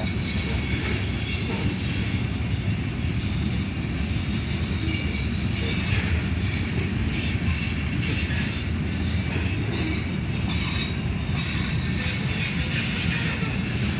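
Freight cars of a mixed CSX merchandise train rolling steadily past, wheels running on the rails with intermittent high-pitched wheel squeal.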